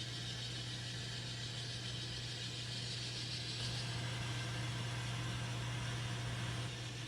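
N scale model diesel locomotive's sound decoder playing a steady diesel engine sound through its small speaker, a low hum under a hiss, a little louder in the middle as the locomotive runs.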